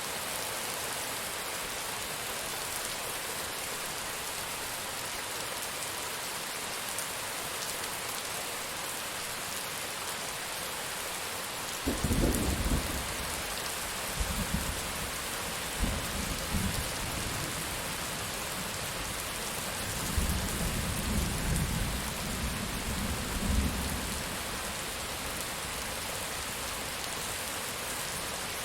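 Steady rain hiss throughout. Thunder rolls in about twelve seconds in with a sharp first crack, then rumbles on in several deep rolls until about two thirds of the way through.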